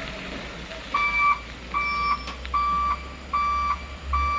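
Truck reversing alarm beeping: five even, single-pitch beeps starting about a second in, over the low rumble of a running diesel engine.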